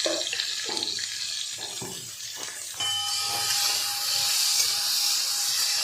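Carrot and potato pieces frying in a little hot oil in a pan, stirred in strokes. About three seconds in the sizzle suddenly turns louder and hissier, and stays steady.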